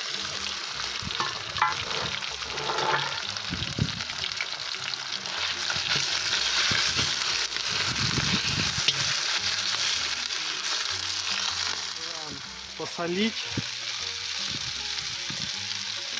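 Minced meat sizzling as it fries with onion, carrot and mushrooms in a hot kazan, being pushed about and stirred with a skimmer. The sizzle is loudest in the middle.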